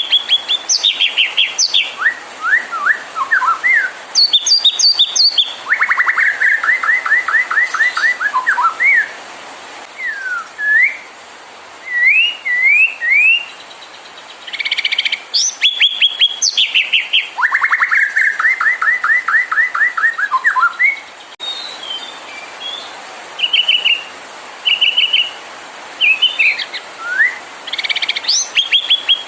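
White-rumped shama singing a loud, varied song: clear whistled upslurs, rapid runs of a dozen or so repeated notes, and sharp high notes, phrase after phrase with short pauses between.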